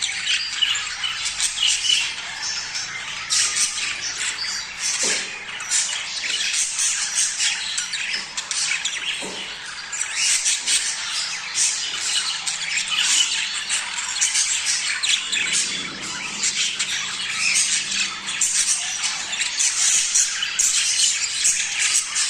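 A flock of budgerigars chattering without pause: many overlapping short chirps, squawks and warbles. This is the busy flock chatter played to caged budgies to prompt them to breed.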